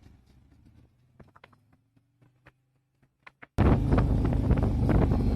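Near silence with a few faint clicks, then, about three and a half seconds in, loud wind buffeting on the microphone cuts in suddenly as the motorcycle rides along.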